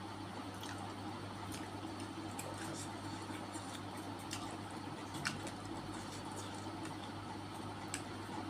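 Wet chewing and smacking mouth sounds from someone eating close to the microphone, with scattered sharp clicks, the loudest about five seconds in, over a steady low hum.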